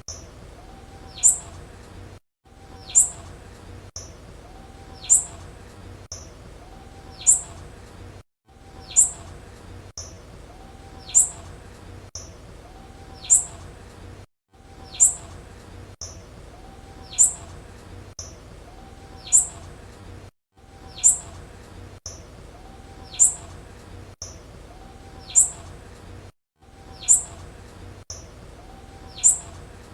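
Blue-black grassquit (tiziu) female call: a short, high, sharply falling chip repeated about every two seconds. The sound drops to silence for a moment about every six seconds.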